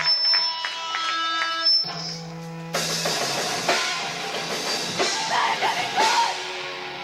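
Live rock band starting a song: sustained pitched notes ring out first, then the drum kit with cymbals and the full band come in about three seconds in.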